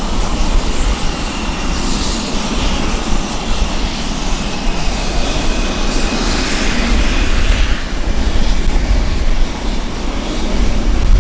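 Military fighter jet engine noise, loud and continuous, a dense rushing roar with faint rising and falling whines up high.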